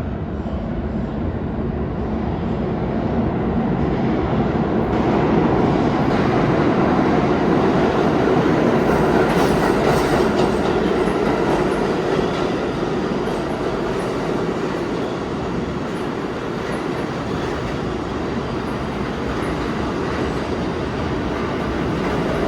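New York City subway train running along the track at the station platform. It is a loud rail rumble that builds over the first several seconds and then holds, with wheels clattering over the rail joints.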